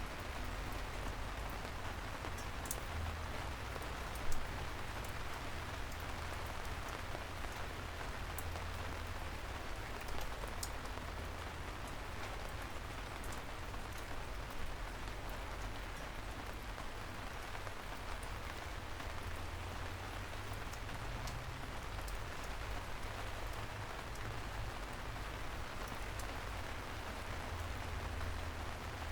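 Steady soft rain falling on a city street, with scattered drops ticking and a low rumble underneath. A sharper drop or tap stands out about four seconds in.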